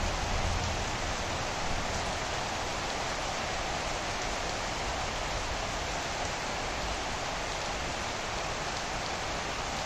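Steady rain falling on trees and garden foliage: an even hiss of rain, with a brief low rumble in the first second.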